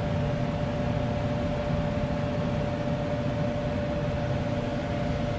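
Furnace blower fan running steadily, an even rush of air with a steady hum.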